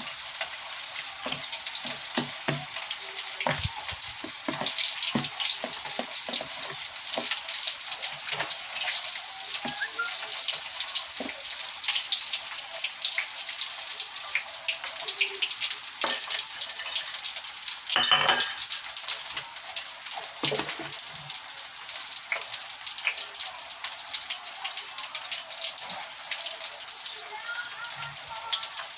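Breaded chicken pieces deep-frying in hot canola oil: a steady, dense sizzle, with scattered light knocks of a utensil or the chicken against the pan and one louder clack a little past the middle.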